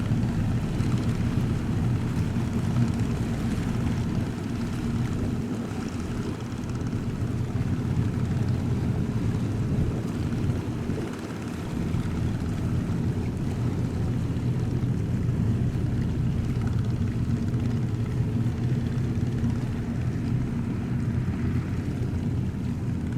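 A ship's engines running with a steady low drone.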